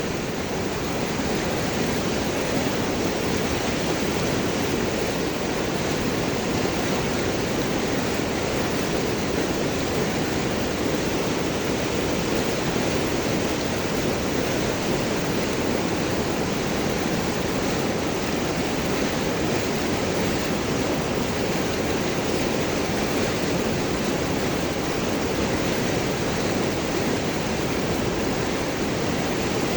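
River water flowing and gurgling over and around large rocks, a steady, even rush.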